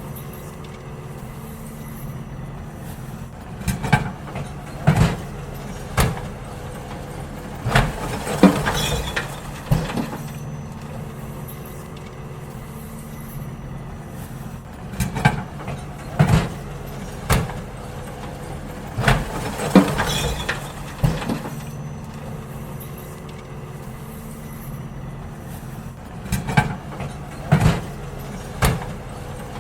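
Garbage truck's diesel engine running steadily while bins are emptied into it: three rounds of bangs and clatter as the bins are tipped and knocked against the lift, about every ten seconds.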